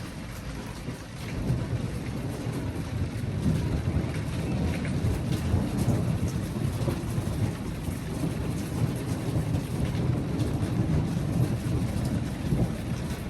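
Long rolling rumble of thunder that swells about a second and a half in and keeps rolling, over steady rain.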